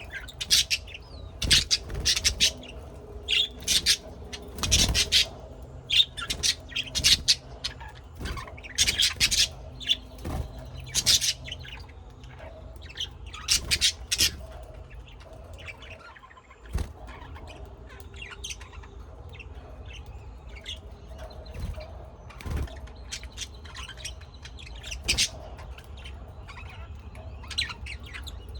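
Birds chirping in quick clusters of short, high chirps, busiest in the first half and thinning out after about halfway, with a faint steady hum underneath.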